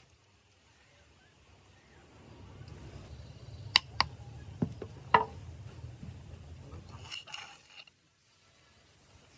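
A handful of sharp knocks or taps over a low rumble that swells and fades, with the loudest knocks about four and five seconds in.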